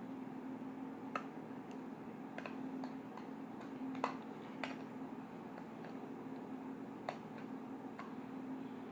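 Slime being handled, giving off scattered small clicks and pops at irregular moments, the loudest about four seconds in, over a steady low hum.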